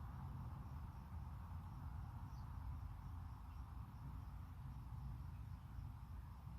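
Faint evening outdoor ambience: crickets chirping in a steady, even pulse over a low rumble, with one short bird chirp about two seconds in.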